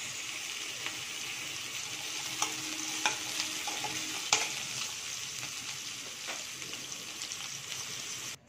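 Sliced onions and curry leaves sizzling in hot oil in a metal kadai, stirred with a metal spoon that clicks against the pan a few times. The sound cuts off abruptly near the end.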